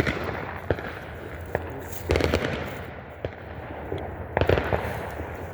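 Fireworks and firecrackers popping irregularly: single sharp cracks, with denser clusters about two seconds in and again past four seconds.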